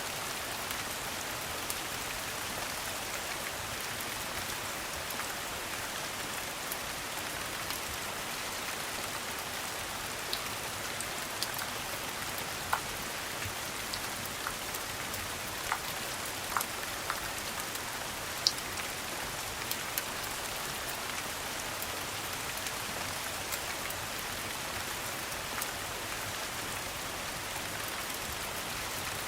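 Steady, even rain falling on a hard surface, with scattered sharp pops and ticks over it.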